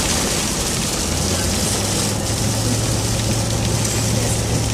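A car driving through a rainstorm: an even hiss of rain on the car and road, over a steady low drone from the engine and tyres.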